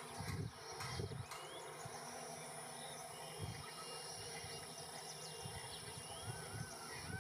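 Outdoor ambience: a steady high-pitched insect drone, with a few short bird chirps near the end over a faint low rumble.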